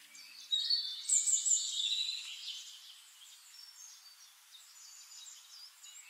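Birds chirping and calling: short high whistles and trills, busiest in the first couple of seconds, then sparser.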